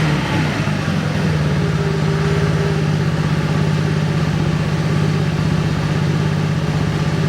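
Honda Giorno AF70 50cc four-stroke scooter engine, fuel-injected and fitted with an aftermarket muffler, settling from a blip of revs to a steady idle about a second in, then idling evenly.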